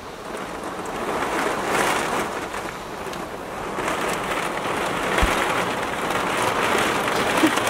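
Heavy rain beating on a fiberglass Scamp travel trailer in a severe storm, heard from inside, with the downpour swelling and easing in gusts of wind.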